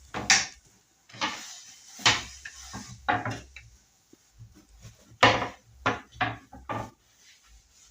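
Cooking pot and lid being handled: a series of sharp metal clatters and knocks at irregular intervals, about nine in all.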